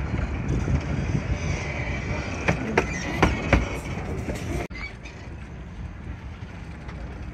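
Miniature-railway carriage rolling along the track with a steady low rumble, and several sharp clacks from the wheels about two and a half to three and a half seconds in. Near five seconds the sound drops suddenly to a quieter rumble.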